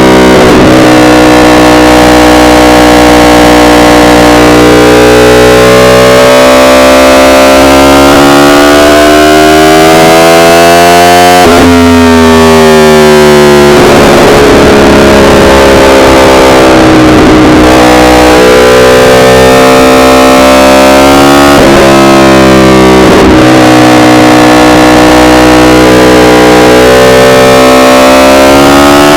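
Yamaha R1 inline-four sport bike engine under way, its revs climbing and falling in long sweeps with sudden pitch breaks at gear changes, about eleven seconds in and again near twenty-two seconds. The recording is loud and distorted.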